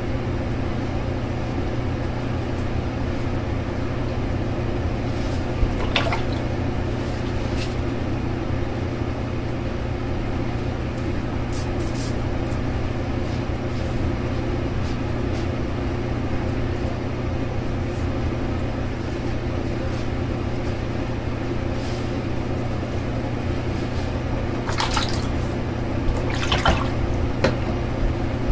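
Steady low hum with a few short splashes and drips of water from wet shaving, the clearest of them near the end.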